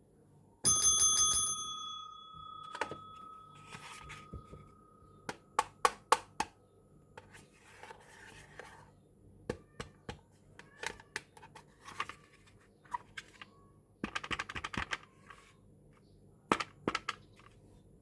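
Miniature plastic kitchen toys being handled during unboxing. A bright bell-like ring comes about a second in and fades over a couple of seconds. After it come many small sharp clicks and taps, with short spells of rustling.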